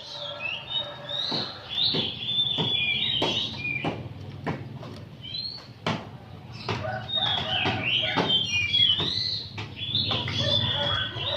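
Oriental magpie-robin singing continuously: a busy run of short chirps and whistled glides broken by harsh, rasping chatter notes, the bird's 'nyerecet' song.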